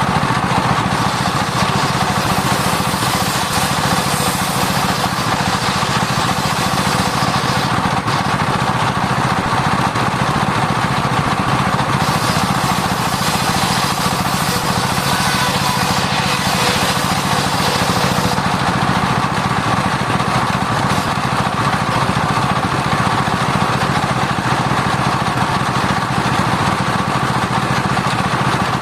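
Sawmill circular saw running steadily while cutting sengon (albizia) timber. A brighter, hissing cutting sound rises over the machine's hum twice: from about a second in to about eight seconds, and again from about twelve to eighteen seconds.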